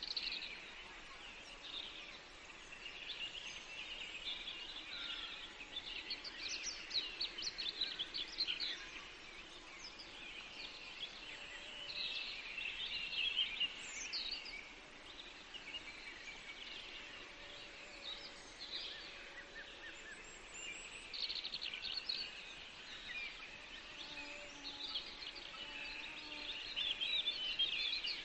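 Songbirds singing in a forest, a chorus of overlapping chirps and trills from several birds, busiest in spells about 6–9, 12–14 and 26–28 seconds in.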